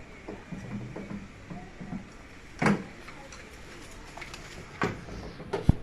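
A few scattered knocks and clunks over a low background: a loud one a little under three seconds in, another near five seconds, and a sharp one just before the end.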